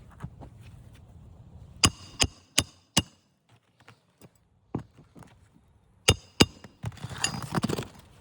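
Hammer driving a roofing nail into an asphalt shingle: four quick blows with a metallic ring, then two more a few seconds later, followed by a brief scrape near the end.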